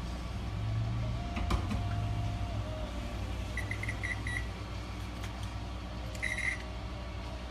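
Several short, high electronic beeps in two groups, over a steady low hum, with a single click and a brief held tone before them.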